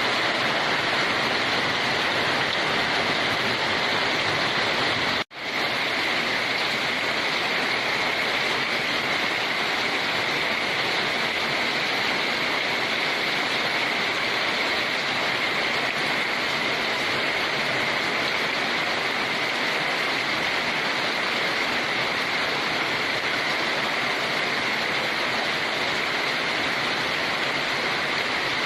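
Steady heavy rain, a dense even hiss, that cuts out for an instant about five seconds in and resumes at once.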